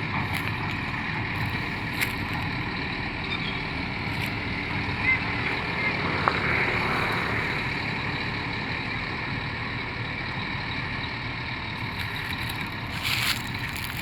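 A vehicle's engine running steadily, with a faint click a little after the middle.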